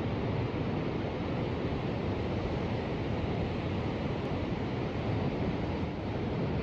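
Ocean surf: a steady, low rushing noise of waves that holds even throughout, with no single wave breaking out above the rest.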